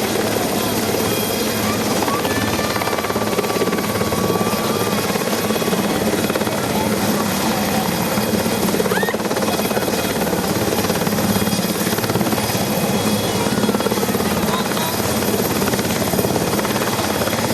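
Search-and-rescue helicopter's rotor and turbine engines running in a steady, continuous drone, even in level throughout.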